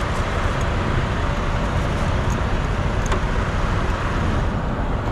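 Steady low rumble of idling diesel trucks, with a faint click about three seconds in.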